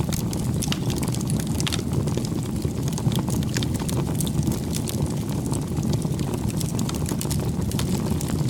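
Wood bonfire burning: a steady low rumble of flame with frequent sharp crackles and pops from the burning wood.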